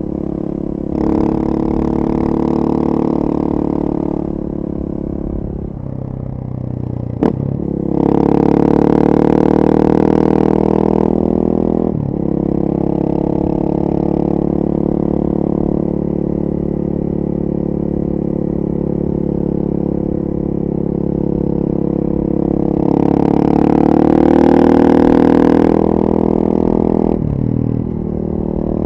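2014 KTM 450 EXC supermoto's single-cylinder four-stroke engine, breathing through a full FMF 4.1 exhaust, running under way. The throttle is opened hard three times with brief dips in between, and there is one sharp click about seven seconds in.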